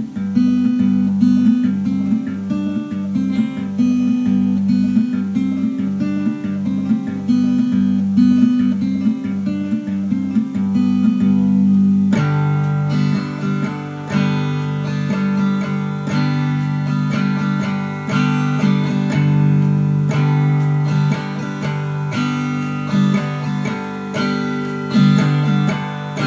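Acoustic guitar playing an instrumental break with no singing: a regular picked pattern of notes, then about twelve seconds in the playing turns fuller and brighter with strummed chords.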